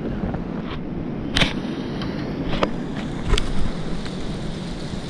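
Strong wind buffeting the microphone with a steady low rumble, broken by a few short sharp clicks.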